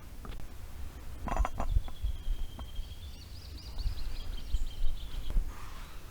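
A few sharp knocks, then a bird calling: one steady whistled note followed by a warbling trill of about two seconds, over low thumps and rumble.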